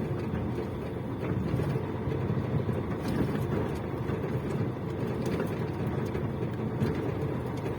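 Steady low rumble of a vehicle's engine and tyres while driving, heard from inside the cab.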